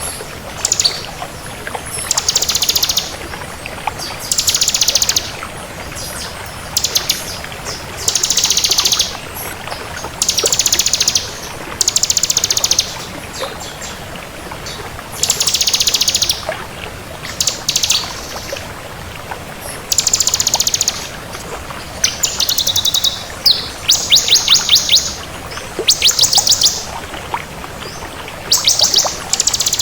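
Bar-winged prinia singing: repeated short phrases of rapid, high trilled notes, one every second or two, over a steady faint hiss.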